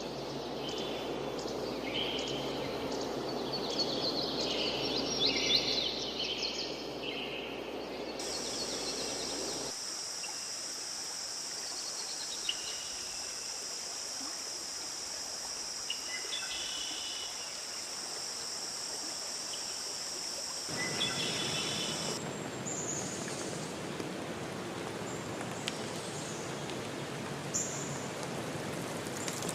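A forest stream running, with birds calling over it. About eight seconds in, a steady high-pitched insect drone sets in and the water sound fades out. Later only scattered chirps are heard over the drone, until the drone stops abruptly and the running water returns with more bird calls.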